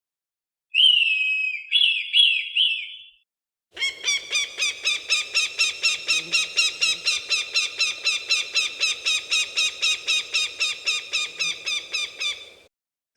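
Falcon calling: a few short, harsh calls, then after a brief pause a long, rapid run of repeated cries at about four a second lasting some nine seconds.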